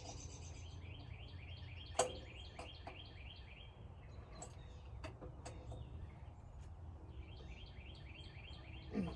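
Faint bird song: a fast trill of short repeated high notes, in two bouts. A sharp click about two seconds in.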